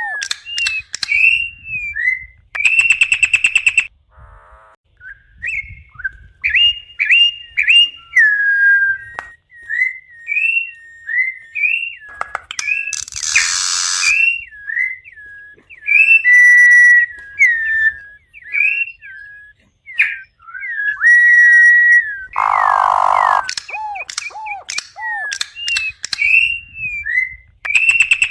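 Campo troupial (corrupião) singing: a long run of short, clear whistled notes that slide up and down, repeated phrase after phrase, broken by a few harsh, buzzy notes about halfway through and again later on.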